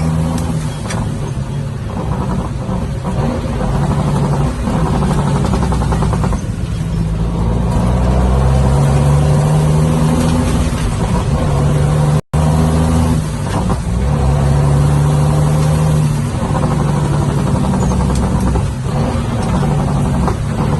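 Ford dump truck engine running and revving, its note shifting up and down, with an abrupt split-second dropout about twelve seconds in.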